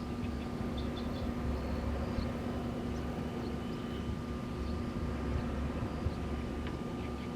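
Wind blowing and rumbling, with the steady hum of wind turbines spinning in it, and faint high chirps now and then.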